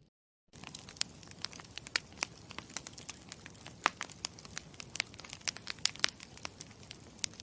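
Campfire crackling: irregular sharp pops and snaps over a steady low hiss, starting suddenly about half a second in.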